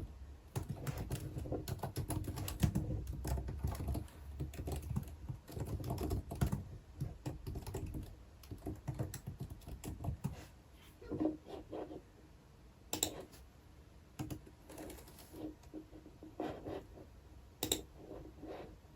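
Typing on a computer keyboard: a fast, steady run of keystrokes for the first half, then slowing to scattered keystrokes and a few sharper single clicks.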